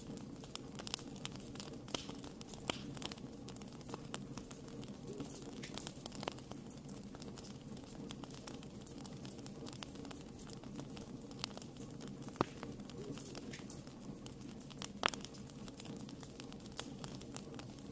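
Wood fire burning in a fireplace: a steady low rumble of flames with frequent small irregular crackles, and two louder pops about twelve and fifteen seconds in.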